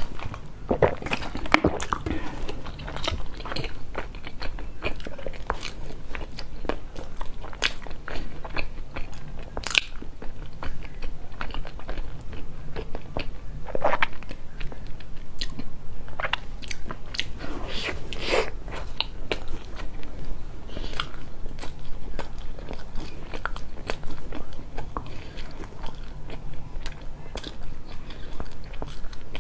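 Close-miked eating sounds: a person biting and chewing a soft pink filled bun, with many small wet mouth clicks. It starts with gulps from a drink.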